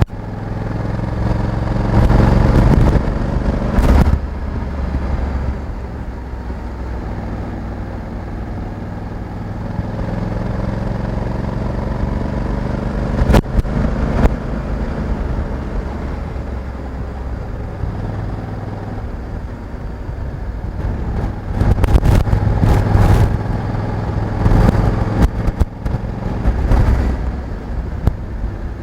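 Honda Africa Twin 1100's parallel-twin engine running as the motorcycle is ridden, its note rising and falling with the throttle. Loud rushes of noise break over it several times: a few seconds in, around the middle, and through most of the last third.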